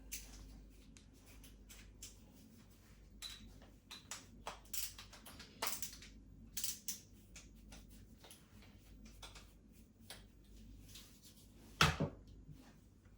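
Scattered light clicks and taps of a metal hook rail and screws being handled, with one louder knock just before the end.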